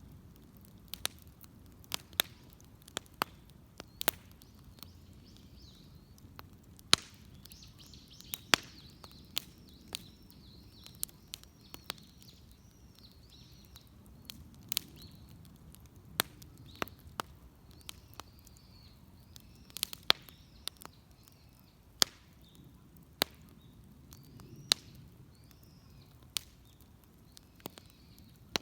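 Wood fire crackling, with sharp, irregular pops of differing loudness. Birds chirp in the background.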